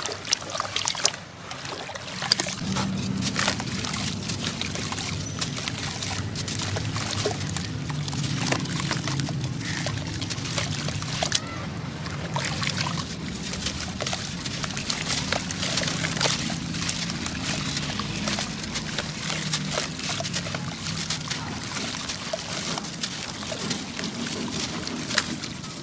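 Sand-cement chunks crumbling, their grains pouring and trickling in a continuous stream of small crackles.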